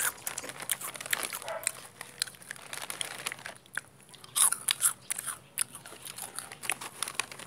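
A person chewing crunchy food close to the microphone: irregular crisp crunches and bites, loudest a little past the middle.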